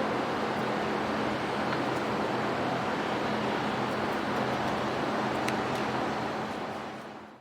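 Spice pulverizer (masala grinding machine) running steadily: a dense rush of grinding and blower noise over a low motor hum. It fades out near the end.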